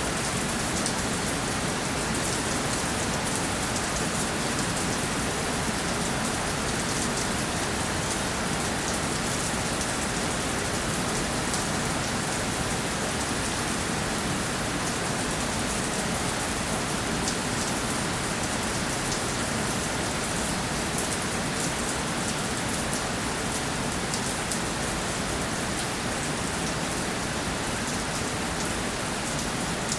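Steady rainfall, with a dense patter of individual drops hitting a surface over an even hiss.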